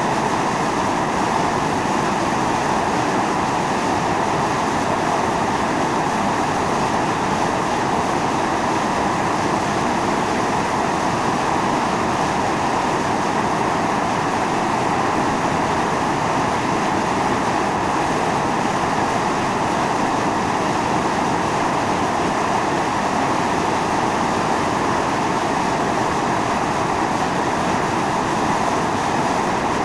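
Volcanic fumarole on Mt. Io (Atosanupuri) steadily jetting steam and gas, a continuous hissing rush strongest in the middle range.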